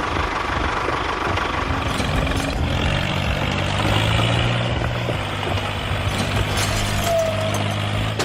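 Engine running steadily, with a deeper steady hum coming in about three seconds in.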